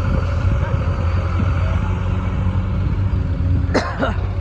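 Diesel engine of a tractor or JCB loader running steadily with a low rumble. A brief, sharp, high-pitched sound with a wavering pitch cuts in near the end.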